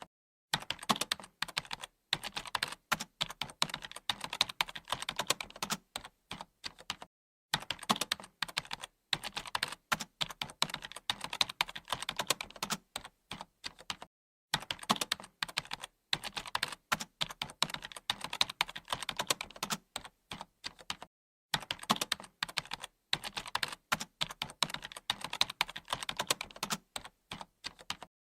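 Continuous fast typing on a computer keyboard: a dense run of key clicks, broken by a few brief pauses.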